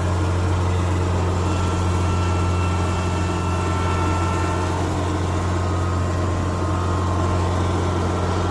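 Kubota combine harvester running steadily: a constant low engine drone with a faint thin whine over it that fades out about halfway through.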